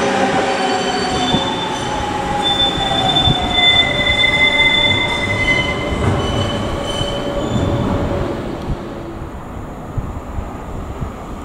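DB class 425 electric multiple unit rolling slowly past, its drive giving a whine that falls in pitch, with high steady squealing tones over the rolling noise. The sound dies down about eight seconds in.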